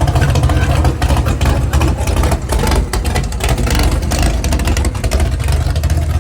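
Classic car engines rumbling low and loud as cars drive past, with a crackling exhaust note.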